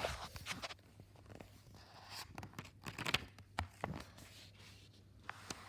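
Paper rustling and crinkling with a few small clicks, as a picture book's page is handled and turned.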